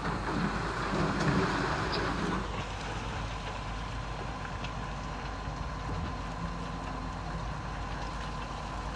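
Heavy diesel machinery running, louder for the first two and a half seconds and then settling to a steady, even sound.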